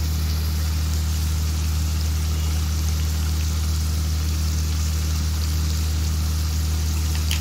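Catla fish curry bubbling and sizzling in a karai, its sauce already much reduced as the dish nears done: a steady hiss over a constant low hum.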